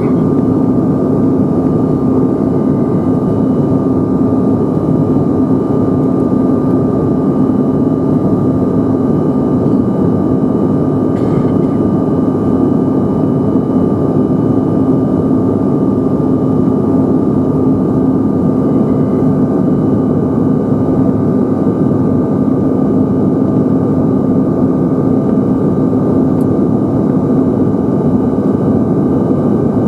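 Steady cabin noise inside a Bombardier CRJ-900 in flight: the drone of its tail-mounted General Electric CF34 turbofans and the rush of air, with a steady low hum and a fainter high whine.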